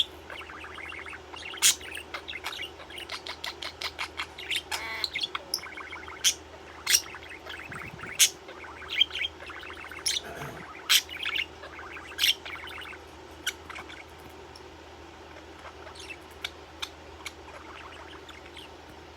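Pet budgerigar chirping and chattering, with many quick sharp chirps that grow sparser and fainter near the end.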